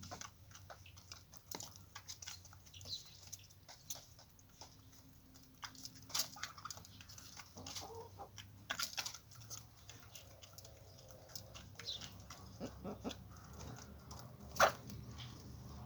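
Chickens clucking, with many small scattered clicks and one sharp knock near the end.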